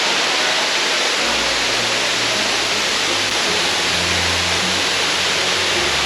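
Baktlai waterfall: water falling and splashing in a steady, loud rush of noise, with a shifting low rumble underneath.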